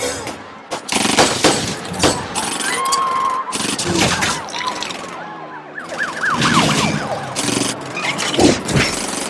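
Car-chase sound effects from a film soundtrack: repeated crashes and impacts, with short squealing tones that slide in pitch, a cluster of quick falling squeals about six seconds in, and a brief lull just before it.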